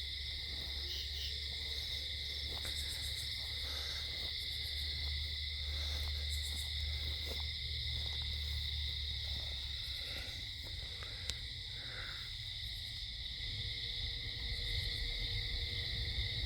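A steady chorus of night insects, shrill and unbroken, over a low continuous hum, a non-stop hum that the listeners take for machines running underground.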